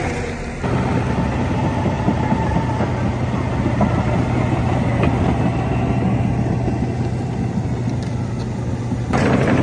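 A construction machine's engine running at a steady speed, coming in suddenly about half a second in, with a burst of louder rushing noise near the end.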